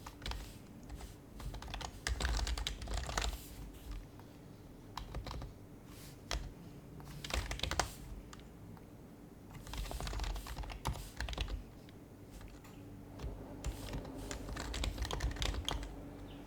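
Typing on an HHKB Professional HYBRID Type-S keyboard: its silenced Topre electro-capacitive keys give soft, muffled clicks and thocks in short bursts with pauses between them.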